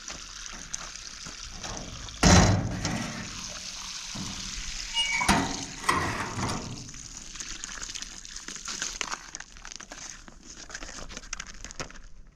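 Running or pouring water, a steady hiss, with a loud thump about two seconds in and two softer knocks around the middle.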